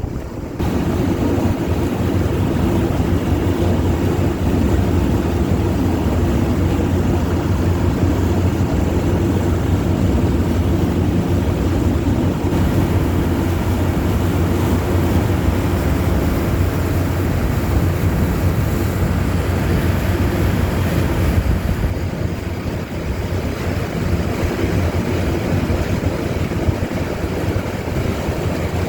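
Engine of an amphibious duck boat running steadily as it cruises on the water, with wind buffeting the microphone. The engine sound dips slightly about two-thirds of the way through.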